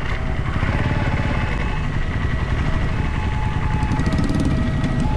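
Train running by, a steady low rumble with rapid clatter, and thin high tones coming and going over it.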